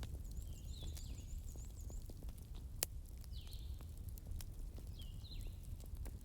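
Campfire crackling with scattered small snaps over a low steady rumble, and one sharp pop about three seconds in. Birds chirp now and then, with short high notes that sweep downward, and a quick high trill comes in the first two seconds.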